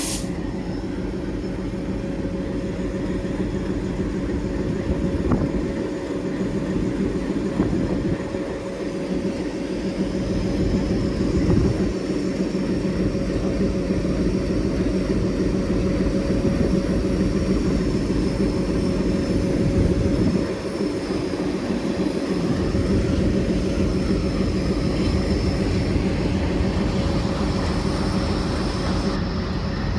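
ALCO WDM-3D diesel-electric locomotive's 16-cylinder ALCO 251 engine idling with a steady low hum.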